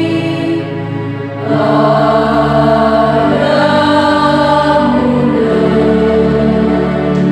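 A choir singing in rehearsal, holding long sustained notes; the singing grows louder about a second and a half in.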